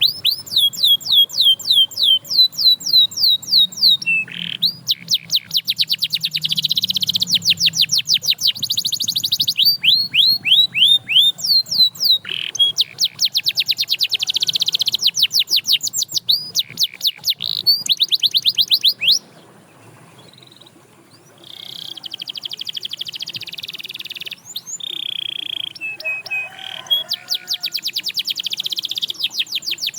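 Domestic canary singing: loud, fast trills of repeated high downward-sweeping notes in rolling phrases. There is a short break a little past the middle, then a stretch of buzzier held notes before the rapid trills resume.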